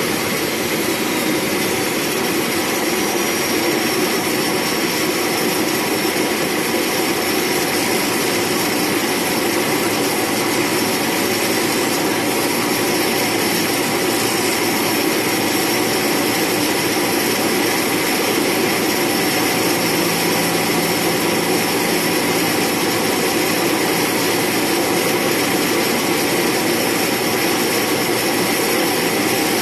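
Air Tractor AT-502's Pratt & Whitney PT6A turboprop engine and propeller running steadily, a constant drone with a faint high turbine whine over it.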